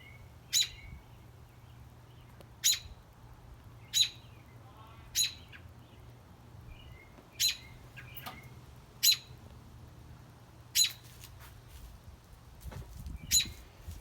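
A bird chirping: about eight loud, short, sharp single chirps spaced every one and a half to two seconds, with a few fainter, softer chirps in between.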